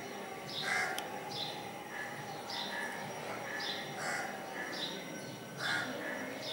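Birds chirping over and over in the background, short calls coming about once or twice a second.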